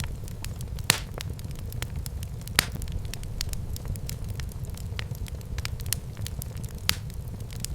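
Wood fire burning in a fireplace: a steady low rumble of the flames with continual light crackling and a few sharper pops, three of them louder than the rest.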